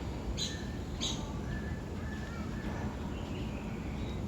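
Birds calling in an aviary: two sharp, high chirps about half a second and a second in, and several short, softer whistled notes, over a steady low background hum.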